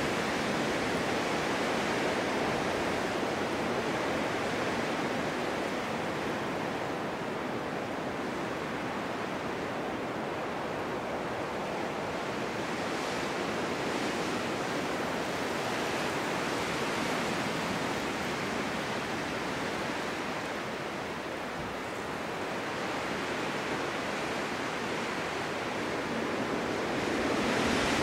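Snowstorm wind blowing steadily as a continuous rush, easing a little past the middle and swelling again near the end.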